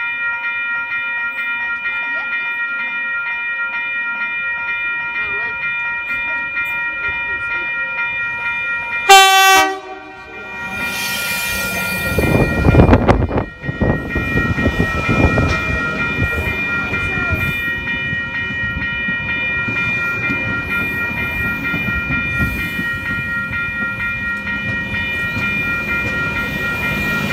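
V-set double-deck electric intercity train approaching and passing close by. A steady whine runs underneath. A short horn blast comes about nine seconds in and is the loudest sound. Then comes the heavy rumble of the train arriving and the rattle of its carriages rolling past.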